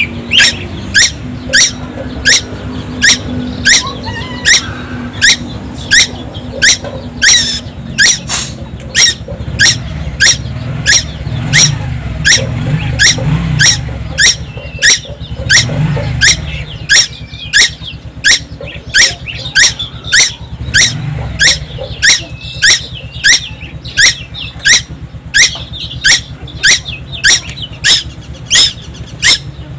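Young tuwu bird calling nonstop: one short, sharp, high note that sweeps steeply upward, repeated very evenly about three times every two seconds.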